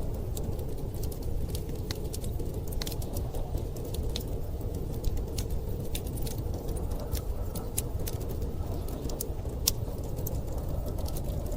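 Wood fire crackling with frequent irregular sharp pops, over a steady low rumble of storm wind.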